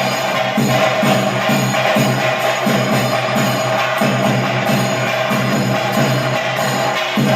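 Temple ritual music: a drum keeping a steady beat about twice a second, with jingling metal percussion and sustained tones over it.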